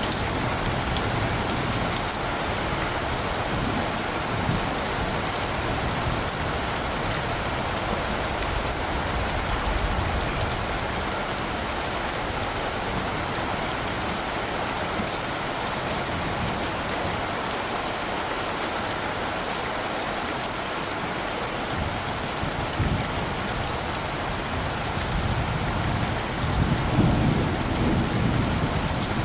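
Steady rainfall pattering on foliage and surfaces. Low rumbles of distant thunder come in the first few seconds and again near the end.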